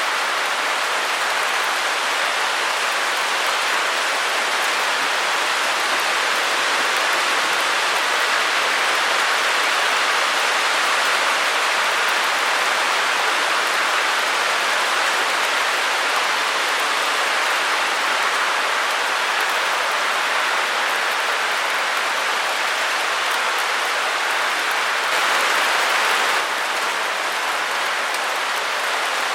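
A white-noise track for sleep and focus: a steady, even hiss with no rhythm or tones, strongest in the upper-middle range. Its level dips slightly about 26 seconds in.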